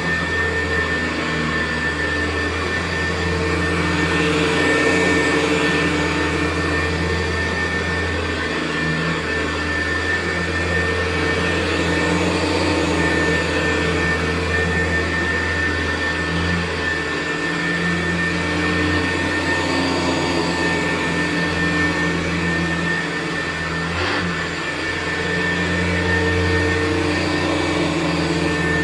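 Hoover U4007 upright vacuum cleaner running over carpet with its brushroll spinning, a steady motor whine over a low hum. The low part of the sound swells and fades every few seconds as the machine is pushed back and forth, with a small knock near the end.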